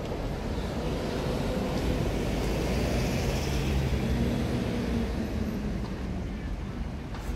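Hong Kong Light Rail two-car train pulling into a stop: the electric traction equipment hums with several steady tones over rolling noise. It grows loudest a few seconds in, then eases off.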